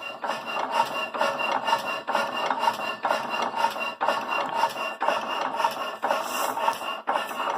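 Old Fairbanks Morse stationary engine running with an even, raspy beat, and a thin steady high whine over it.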